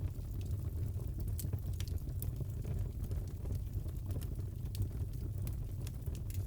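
Wood fire in a fireplace crackling: a steady low rumble with irregular sharp pops and snaps.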